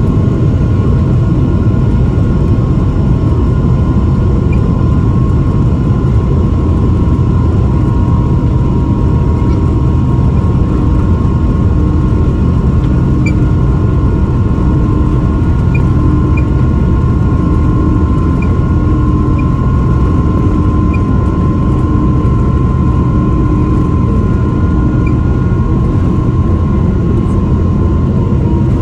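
Boeing 777-300 airliner's jet engines at takeoff thrust, heard inside the passenger cabin: a loud, steady rumble with a steady whine of engine tones on top, and a few faint ticks of cabin rattle.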